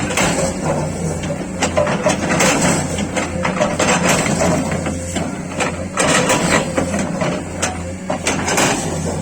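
Sany excavator's diesel engine running steadily, with irregular knocks and scraping clatter from its ripper tooth breaking ground.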